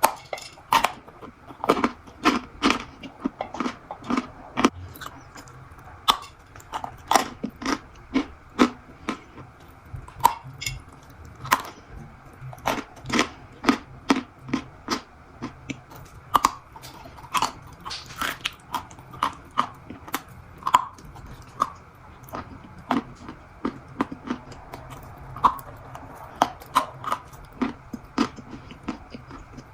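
Crunchy food being bitten and chewed close to the microphone, with sharp, irregular crunches about two or three a second.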